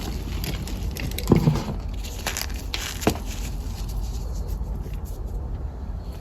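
Dried cornstarch being crushed, a run of dry crunches and crackles with two louder crunches about a second in and about three seconds in, thinning out to fainter crackles toward the end.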